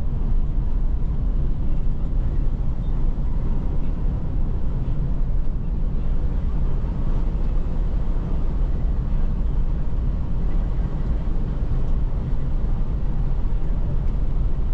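Steady low rumble of a Scania multi-axle coach under way, with no breaks or sudden events.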